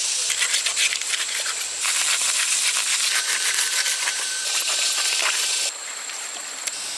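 Steady hissing noise with many small crackles, changing abruptly twice and dropping in level near the end.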